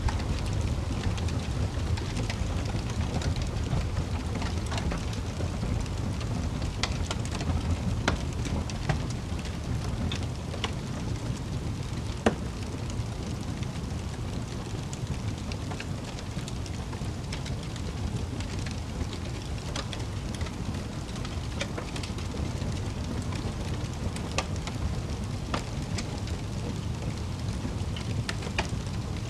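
Wood fire crackling in a fireplace: a steady low rumble of burning with scattered sharp pops at irregular intervals, the loudest pop about twelve seconds in.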